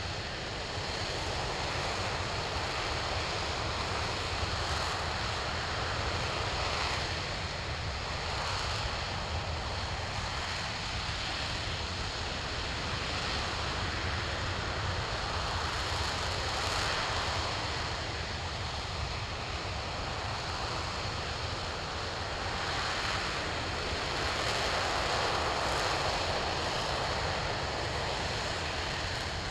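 RS-25 liquid-hydrogen and liquid-oxygen rocket engine firing on a test stand, a steady, unbroken rushing noise at constant power.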